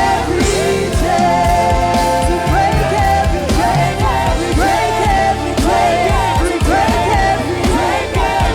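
Live worship band playing with singing over a steady beat and bass.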